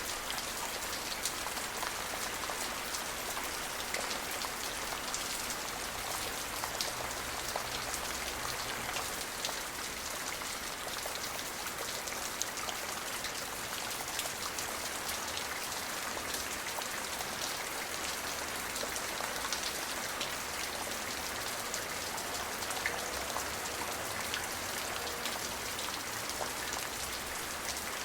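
Steady rain falling, a continuous hiss dotted with many small drop impacts.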